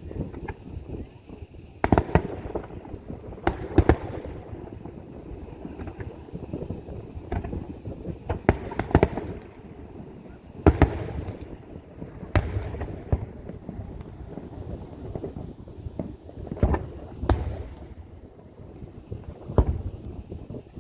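Aerial fireworks shells bursting during a display's finale: a run of sharp booms at irregular intervals, several close together around the second and fourth seconds and again near the middle and end, over continuous low rumbling and crackling.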